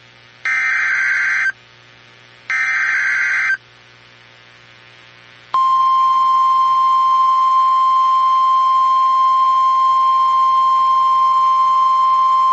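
NOAA Weather Radio Emergency Alert System signal: two one-second bursts of buzzy SAME header data tones, a second apart, ending a three-burst header, then after a pause of about two seconds the steady 1050 Hz warning alarm tone begins. The header and alarm tone announce a new severe thunderstorm warning.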